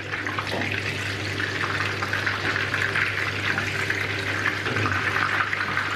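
Flour-and-egg-coated salt cod pieces frying in hot oil in a frying pan: a steady, crackling sizzle.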